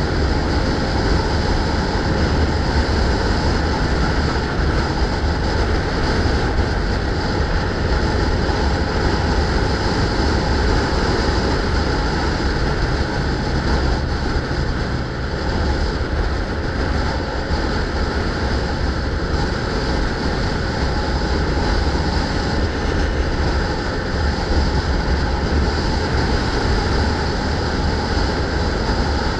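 Steady rushing wind and road noise on the microphone of a camera carried on a moving bicycle, heaviest in the low rumble, with no break.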